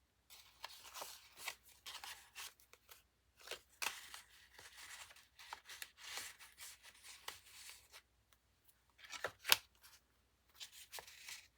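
Paper and cardstock pages of a handmade journal being handled and flipped, rustling and crinkling in short irregular bursts, with one sharper click about nine and a half seconds in.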